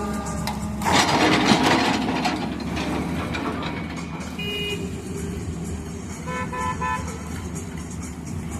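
Heavy diesel excavator engine running steadily, with a loud grinding, crashing burst about a second in and two short horn-like toots midway through.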